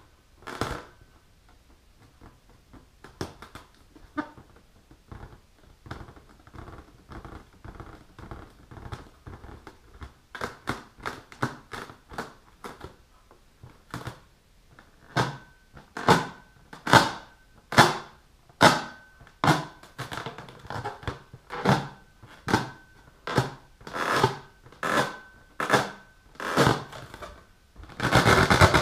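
Long fingernails scratching and tapping the rubber skin of an inflated balloon, in a run of short scratchy strokes. About halfway through the strokes grow louder and quicker, and they crowd together near the end.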